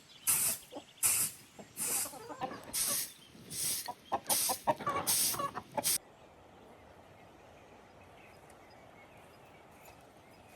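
Chickens clucking over a rhythmic scraping noise, about two strokes a second, which stops abruptly about six seconds in, leaving only a faint steady background.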